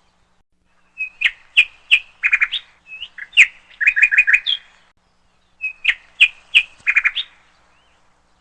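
Sparrow chirping: three runs of quick, repeated short chirps, the first starting about a second in and the last ending shortly before the close.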